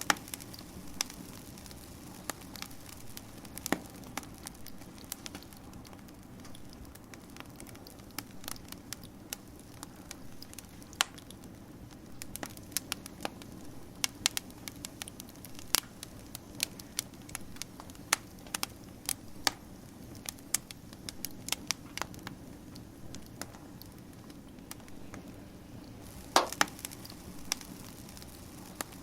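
Wood fire crackling: irregular sharp pops and snaps over a steady low rush, with a louder burst of pops near the end.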